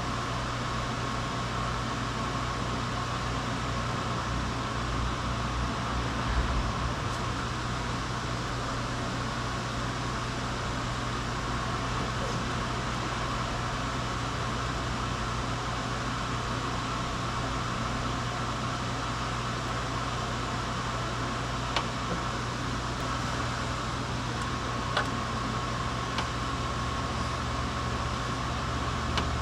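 Steady mechanical hum and hiss at an even level, with a few faint clicks in the second half.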